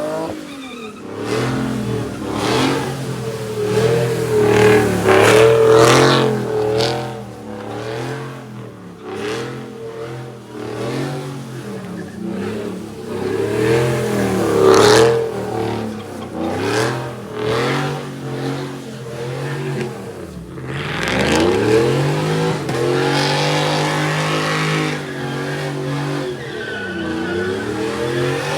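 Car engine revving up and down over and over. About two-thirds of the way in it drops low and then climbs in one long rising sweep as it accelerates.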